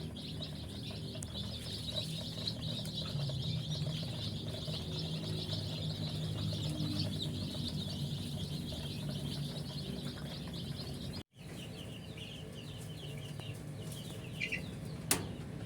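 A flock of young poultry chicks cheeping together, a dense continuous peeping of many birds at once, over a low steady hum. The sound cuts out for an instant about eleven seconds in and the peeping goes on fainter.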